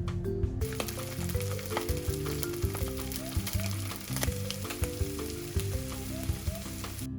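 Food sizzling and crackling in a hot frying pan. It starts about half a second in and cuts off suddenly near the end, over light marimba-style background music.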